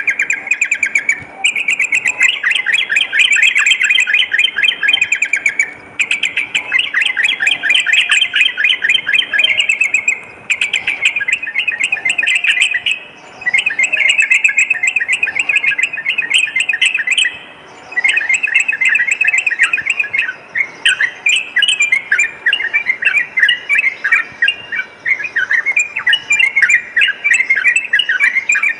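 Yellow-vented bulbul (trucukan) singing in long, rapid chattering phrases of a few seconds each, separated by short pauses; the phrases become shorter and choppier in the second half.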